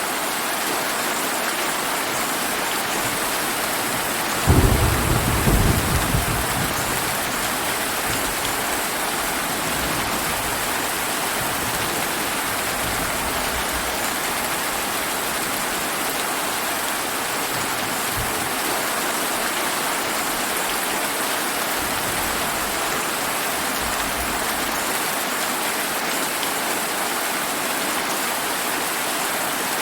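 Steady rain hissing throughout, with a sudden thunderclap about four and a half seconds in that rumbles away over the next couple of seconds. Fainter low thunder rumbles come again later.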